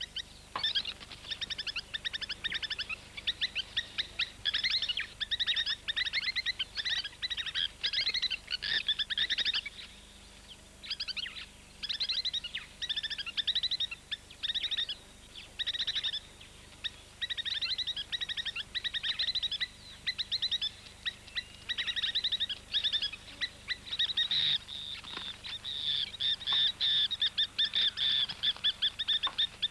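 Plovers giving rapid, high-pitched alarm calls in long runs of short repeated notes: the agitated calling of birds defending their nest from marabou storks.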